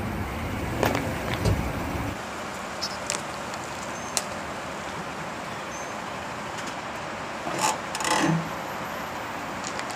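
A truck's engine rumble that drops away about two seconds in, over a steady outdoor hiss. Several sharp cracks and crunches come through, the loudest cluster about three-quarters of the way through, typical of plastic toys breaking under a truck tyre.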